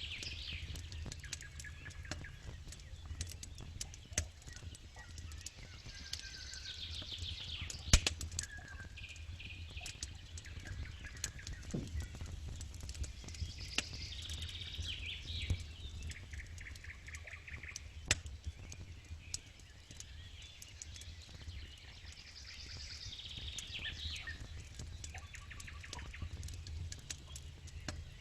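Campfire crackling and popping, with one sharp pop about eight seconds in, while songbirds sing short trilling phrases every few seconds. A low steady rumble runs underneath.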